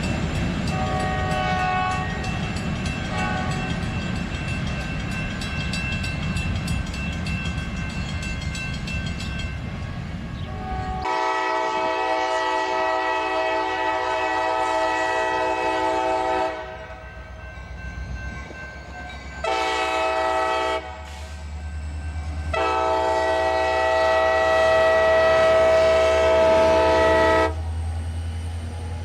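Passing train rumbling on the rails, then a diesel locomotive's multi-chime air horn sounding a long blast, a short one and another long one, with the locomotive's engine drone building under the later blasts.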